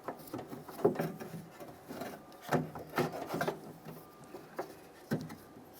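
Rear interior door handle assembly being worked around inside a pickup door to reach its linkage rods: irregular light knocks, clicks and rubbing scrapes.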